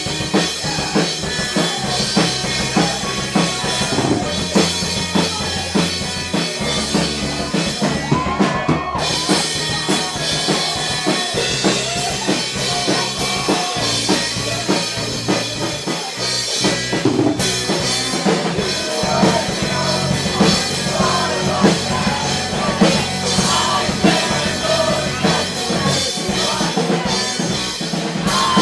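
Live band playing a song with a full drum kit, loud and continuous.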